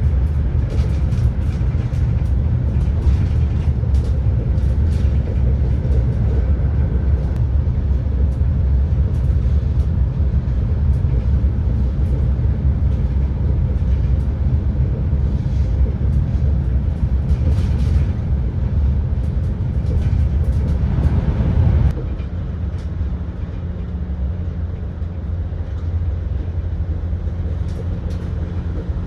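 Running noise inside an ETR600 high-speed train on the move: a steady low rumble. About three quarters of the way through it drops suddenly to a quieter, steadier hum.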